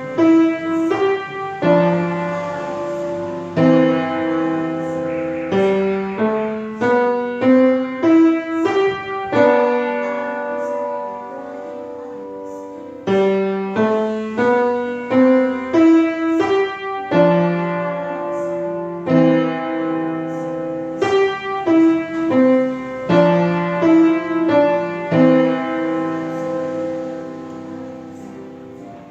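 Solo piano playing a slow melody over chords, each note struck and left to ring, dying away near the end.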